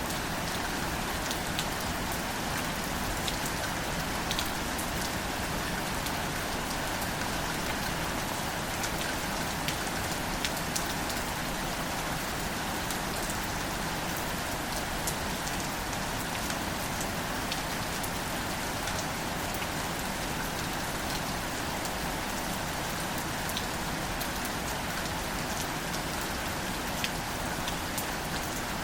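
Gentle, steady rain falling on wildflowers and their leaves: an even hiss with scattered close drop ticks.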